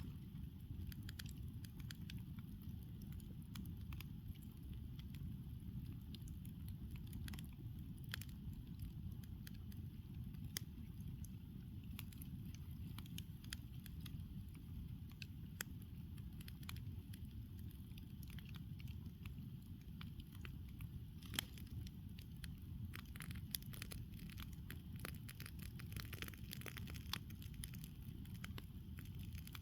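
Campfire burning, with frequent small crackles and pops from the wood scattered irregularly over a steady low rumble.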